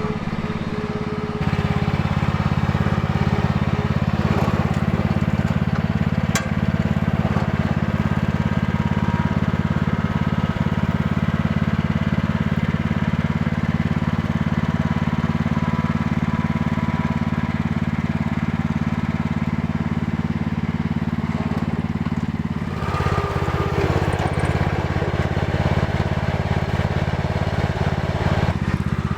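1978 Cub Cadet 1000 garden tractor's single-cylinder Kohler engine running steadily while the tractor is driven in its creeper gear. The engine note steps up about a second in and shifts briefly a little over two-thirds of the way through.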